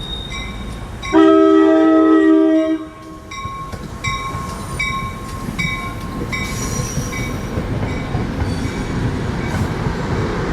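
Train horn sounding one loud blast of nearly two seconds, about a second in, over the low rumble of a train on the tracks. After it comes a run of about six evenly spaced ringing strikes, a little under one a second.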